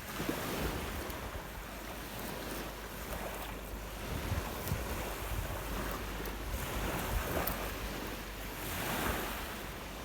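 Rough lake waves breaking and washing on the shore in a steady roar of surf, with wind buffeting the microphone. One wave swells louder about nine seconds in.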